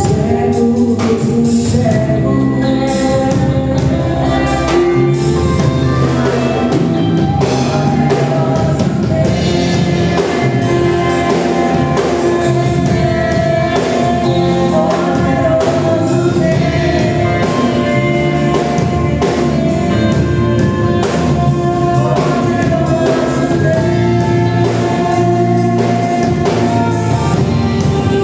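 Live Portuguese gospel worship music: voices singing over a band with a drum kit, at a steady level.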